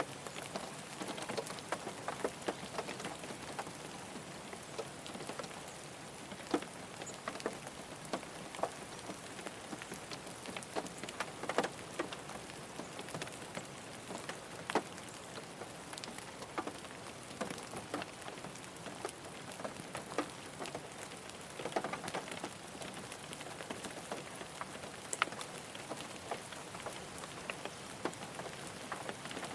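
Steady rain falling on a car, a constant hiss with many separate drops tapping sharply on the body at irregular moments.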